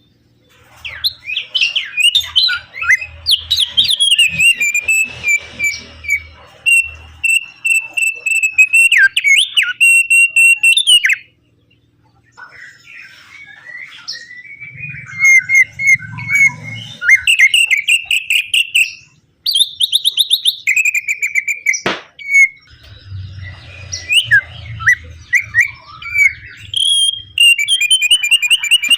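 Opior (Javan grey-throated white-eye) singing long, fast, chattering phrases of rapid chirps and trills, breaking off briefly twice. A single sharp downward swoop cuts across about two-thirds of the way through, and a faint low rumble sits under some passages.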